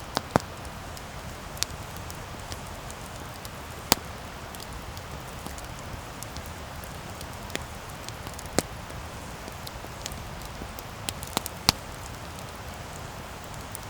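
Wood campfire crackling: a steady hiss with a dozen or so sharp pops scattered through it, the loudest near the start and about four seconds in.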